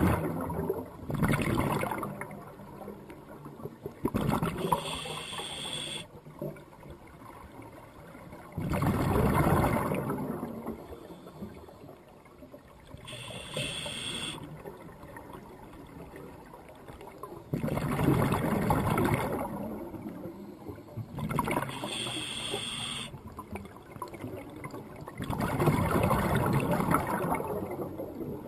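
Sea water surging and washing in repeated swells about every four seconds. Roughly every nine seconds a swell carries a short high creak.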